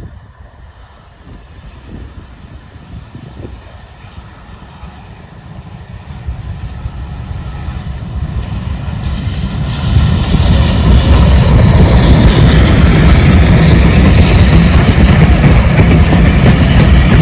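A steam-hauled train approaching and passing close by. Its rumble grows steadily over about ten seconds, then stays loud and steady as the train goes past.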